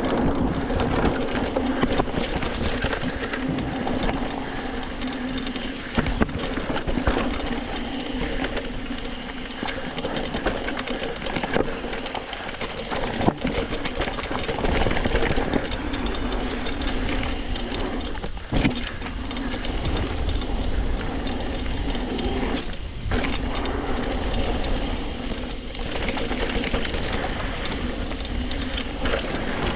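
Downhill mountain bike rolling over a rough dirt trail: steady tyre noise with continual rattling from the bike and a few sharp knocks over bumps.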